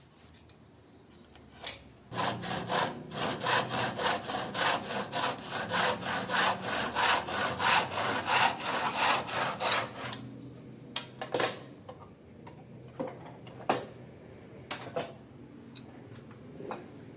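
Hand saw cutting through wood in a steady run of quick back-and-forth strokes, about two to three a second, which stops about ten seconds in. A few separate knocks follow.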